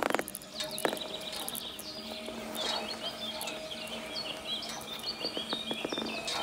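Small songbirds chirping in quick, short phrases from about two seconds in, over a faint steady hum. Two sharp knocks come in the first second.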